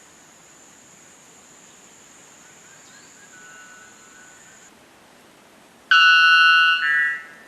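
A bird's loud, buzzy call near the end, lasting about a second and changing pitch partway through. Before it, a thin high whistle fades out after about four and a half seconds.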